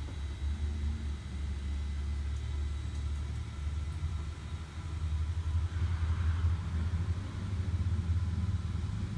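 Vehicle engine idling with a low, steady rumble.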